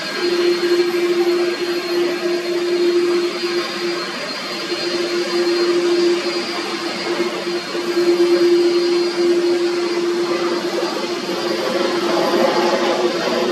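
Jet airliner engines running: a steady rushing noise with a held low hum and a faint high whine.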